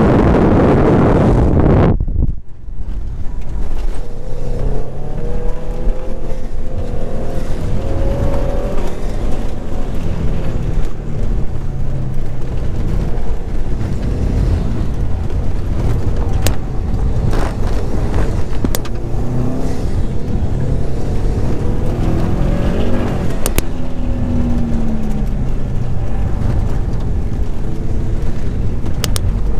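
Car engine revving up and falling back again and again as the car is driven hard, over steady road rumble, with a few sharp knocks. For about the first two seconds loud wind buffeting on the microphone covers everything, then cuts off suddenly.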